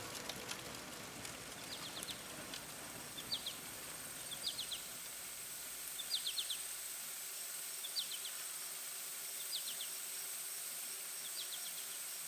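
Rural ambience: a bird repeating a short call of three or four quick high notes about every one and a half to two seconds, over a steady high insect drone.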